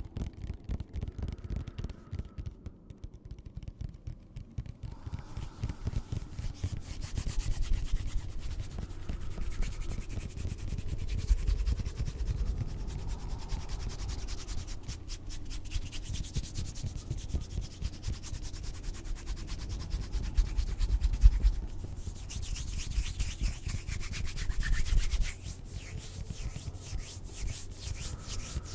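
Close-up rubbing and scratching on or near the microphone, a dense crackling texture with a low rumble underneath, quieter for the first few seconds and then fuller.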